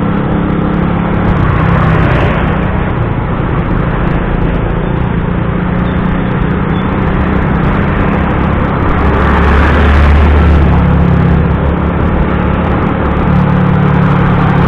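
Riding a motorcycle in heavy traffic: steady engine hum with road and wind rush. The engine noise swells louder about ten seconds in.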